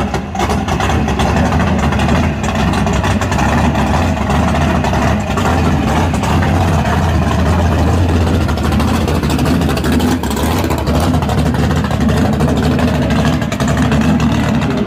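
Muscle car engine idling steadily with a low rumble.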